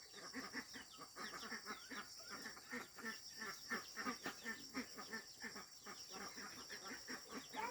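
Poultry, chickens by the tags, calling in a dense run of short clucks and cheeps, faint, with a steady high whine behind them.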